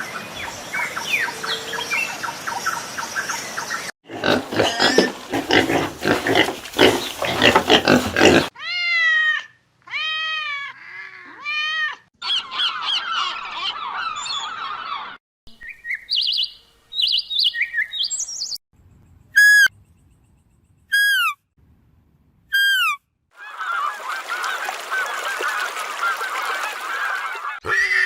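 A series of separate farm-bird call recordings, among them geese honking in repeated arched calls. Each group of calls stops abruptly and the next begins.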